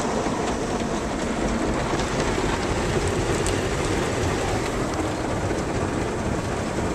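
Automatic car wash spraying water and soap over the car, heard from inside the cabin as a steady rushing noise.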